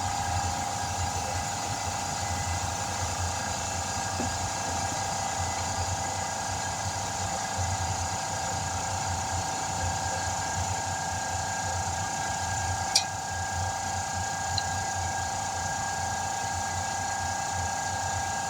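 A machine running steadily with a constant whine over a low fluttering rumble, and one sharp click about thirteen seconds in.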